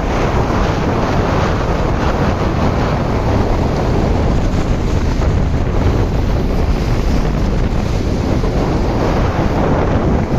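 Waves of a rough sea breaking in steady loud surf, with strong wind buffeting the microphone.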